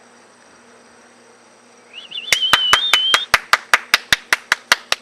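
Rapid hand clapping, about five claps a second, starting a little past two seconds in, with a short wavering whistle just before it. It is the handler's call urging a retrieving puppy to come in.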